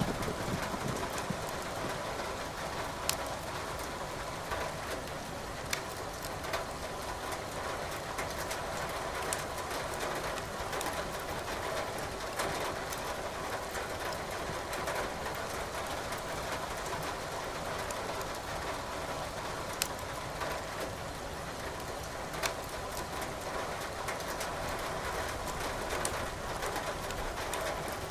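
Wood burning in a fireplace, crackling with scattered sharp pops, over a steady hiss of rain.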